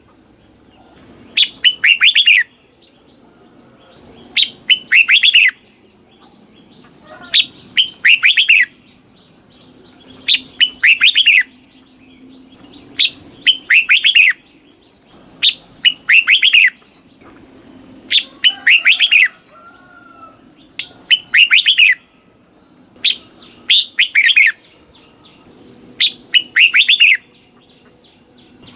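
Red-whiskered bulbul singing: a short, loud phrase of quick, sweeping whistled notes, repeated about every three seconds, around ten times.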